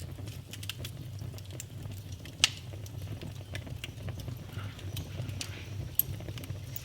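Wood fire burning in a fireplace, crackling with many small snaps and two louder pops, one about two and a half seconds in and one about six seconds in, over a steady low rumble.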